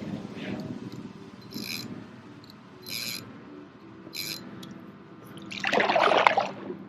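Water dripping and splashing in a regular rhythm, a short splash about every second and a bit, as a kayak is paddled on flat, calm water; a louder splash comes near the end.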